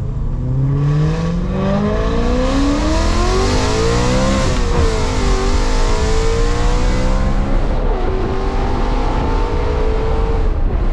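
Straight-piped BMW E92 M3's V8 exhaust accelerating hard, the pitch climbing, then dropping briefly as it changes gear about four and a half seconds in and again near eight seconds before climbing once more.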